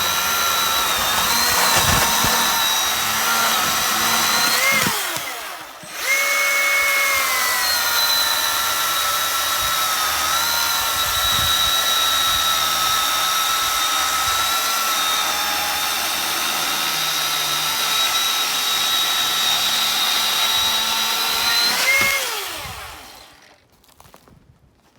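Battery-powered electric chainsaw running at a steady whine while cutting wood, its pitch dipping slightly under load. It winds down about five seconds in and starts straight up again, then winds down to a stop near the end.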